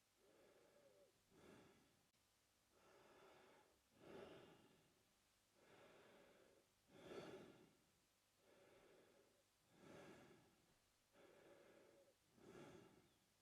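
A man breathing slowly and steadily through his mouth, faint, with alternating louder and softer breaths, about five in-and-out cycles.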